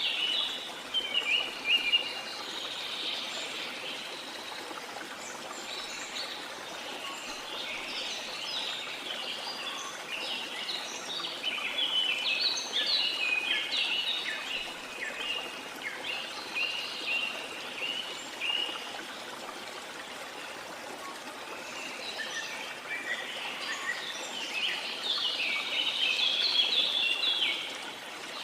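Birds chirping and singing in bursts over a steady rush of falling or running water. The birdsong comes in three busy spells, at the start, in the middle and near the end, with a quieter gap between the middle and last spells.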